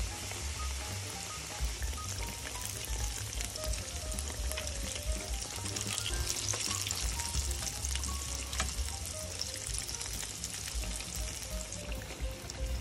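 Batter-coated oyster mushrooms sizzling in hot oil in a frying pan, a steady hiss that is loudest through the middle.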